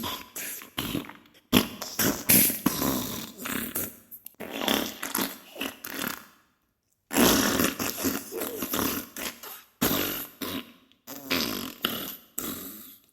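Diarrhea sound effect: a run of fart bursts, each lasting from a fraction of a second to about a second and a half, with short pauses between them and a silence of about a second halfway through.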